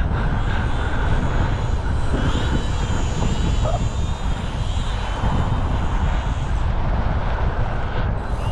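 Strong wind buffeting the microphone, with the thin high whine of a UMX Radian ultra micro RC glider's electric motor and propeller wavering in pitch from about two seconds in.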